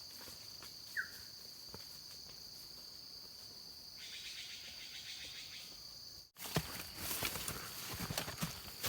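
Steady high-pitched drone of insects, with one short chirp about a second in. Just past six seconds the sound cuts out briefly and gives way to a dense run of crackling rustles and clicks.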